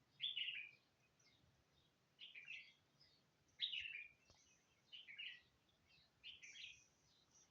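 Birds chirping: five short twittering phrases, each under half a second, repeating about every second and a half.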